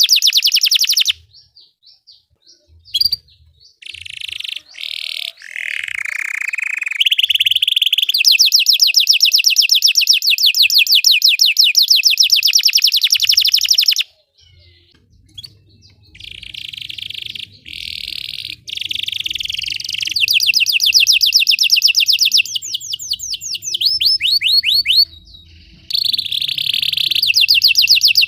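Canary singing in long, fast trills of rapidly repeated notes, mixed with buzzy rolling phrases. The song breaks off a few times with short pauses.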